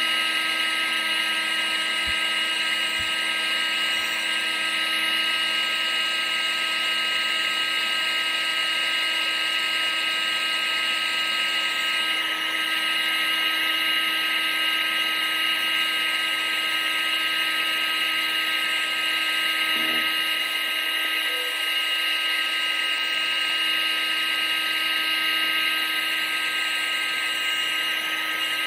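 Vacuum cleaner running continuously at a steady pitch: a constant high motor whine over an even rush of air.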